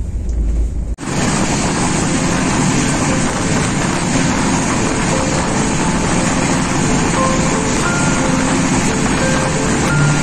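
Moving passenger train heard from its carriage window: a low rumble for about the first second, then a steady loud rush of wheel-on-rail noise and wind that holds to the end.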